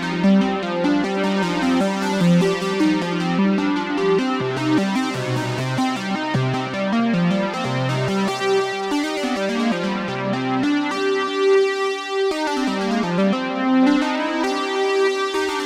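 Behringer Poly D analog synthesizer playing a steady run of short stepped notes over a bass line. About two-thirds of the way in, the bass drops out for a second or so while a higher note is held, then the pattern returns.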